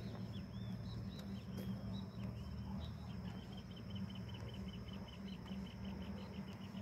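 A bird calling: a series of short, clear notes that start spaced out and speed up into a rapid run of about five a second. Behind it, a steady high-pitched insect drone and a low steady hum.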